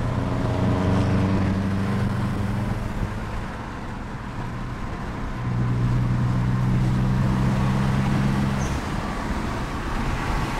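A 1990 Nissan 300ZX's VG30DETT twin-turbo V6, with a cat delete and HKS catback exhaust, heard from inside the cabin while driving. It pulls under throttle, eases off about three seconds in, then pulls steadily again from about five seconds until it lets off near nine seconds.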